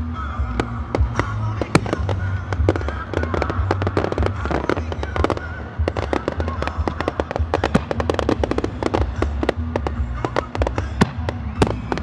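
Aerial fireworks bursting: a rapid string of sharp bangs and pops, with dense crackling clusters a few seconds in and again later, over a steady low rumble.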